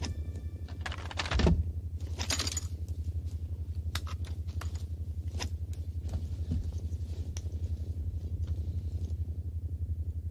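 A low hum pulsing fast and evenly runs throughout. About a second and a half in there is a thump, then a metallic jangle, and scattered clicks and ticks follow until about nine seconds in.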